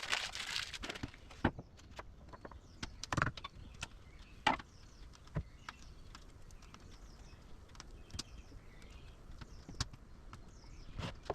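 Irregular knocks and clicks, one every second or so, with faint bird chirps behind them.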